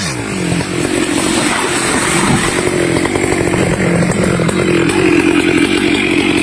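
Stihl chainsaw engine running hard, its pitch dropping sharply at the start and then holding fairly steady.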